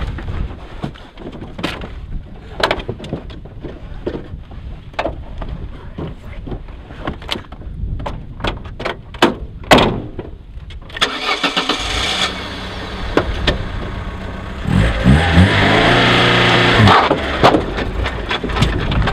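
A run of clicks and knocks as someone climbs into a small hatchback, the loudest about ten seconds in. Then the Vauxhall Corsa's 1.2-litre petrol engine is cranked and starts about eleven seconds in and runs at idle. It is revved for about two seconds around fifteen seconds in, then settles back to idle.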